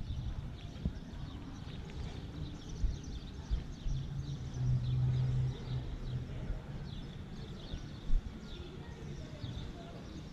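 Birds chirping: many short, high calls scattered throughout, over a low outdoor rumble that swells briefly about four seconds in.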